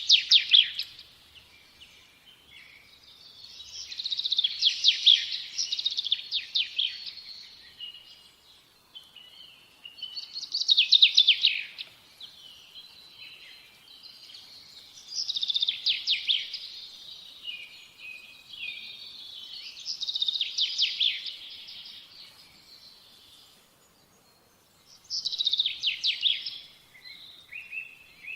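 A songbird singing the same fast, trilled, high-pitched phrase over and over, each phrase about two seconds long and repeated roughly every five seconds.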